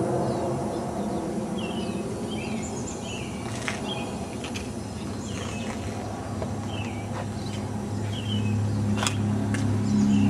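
Yamaha R1's inline-four engine idling steadily through a Two Brothers aftermarket exhaust, getting louder about eight seconds in. Birds chirp repeatedly over it.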